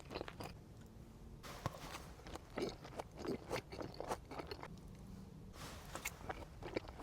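Close-miked chewing of sushi: wet mouth smacks and clicks in irregular runs, with two short pauses, one about half a second in and one near the fifth second.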